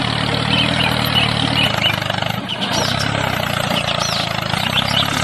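Mini tractor's small engine running steadily with a low, even hum, with a few short high chirps over it.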